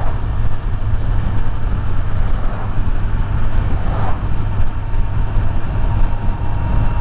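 Kawasaki Z900's inline-four engine running steadily at cruising speed, with wind and road noise from riding.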